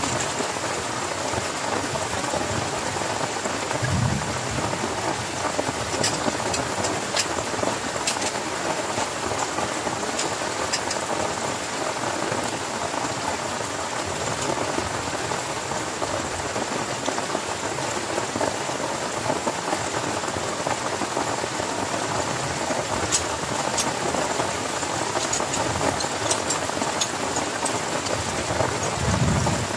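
Heavy rain falling steadily on a tent, with scattered sharp drop clicks. There are two brief low thuds, about four seconds in and near the end.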